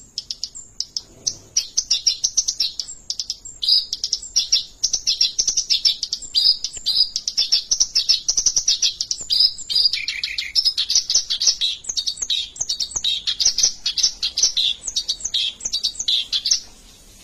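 Oriental reed warbler (kerak basi) singing a long, unbroken song of rapid high chattering notes, with a lower phrase about ten seconds in, stopping just before the end.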